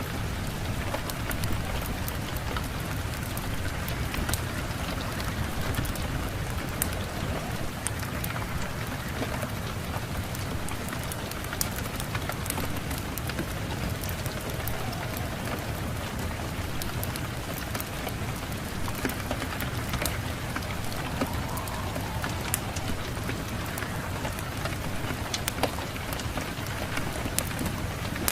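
Steady rain falling, with a constant low rumble underneath and scattered sharp crackles and ticks throughout.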